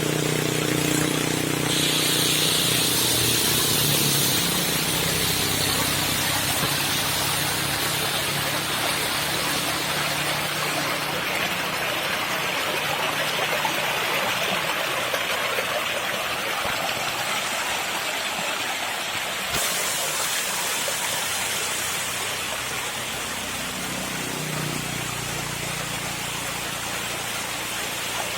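Small waterfall rushing steadily. A passing motor vehicle's engine hum fades out in the first few seconds, and another vehicle is heard approaching near the end.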